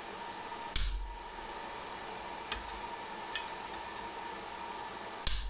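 Two sharp knocks of steel on steel while the tongs are worked at the anvil, one about a second in and one near the end, with two faint ticks between them. Under them runs a steady hiss and hum with a thin steady tone.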